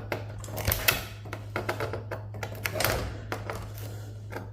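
Irregular sharp clicks and snips of hand cutters biting through the small metal legs of IC chips on a circuit board, over a steady low hum.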